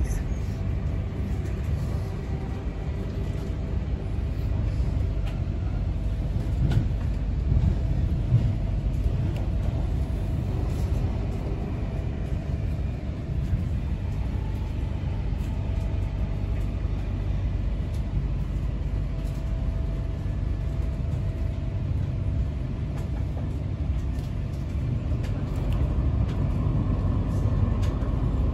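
Steady low rumble inside a moving electric passenger train: wheels running on the rails, with a faint whine that comes and goes.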